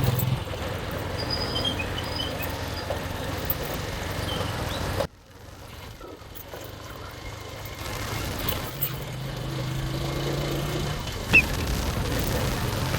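Motorcycle engine running with wind rushing over the microphone while riding. The sound drops abruptly about five seconds in, then builds again to a steady engine hum.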